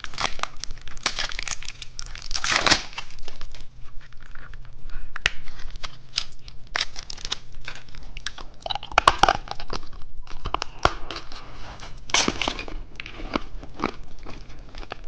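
Plastic candy packaging being handled, crinkled and torn open by hand: an uneven run of rustles, crackles and sharp clicks, with louder bursts around a quarter, two-thirds and four-fifths of the way through.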